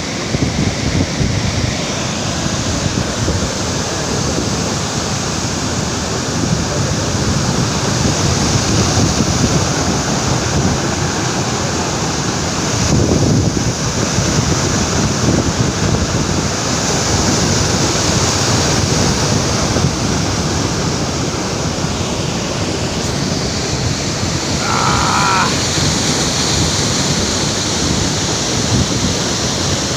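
Steady rushing roar of falling water at the Avuku waterfall, with wind buffeting the microphone.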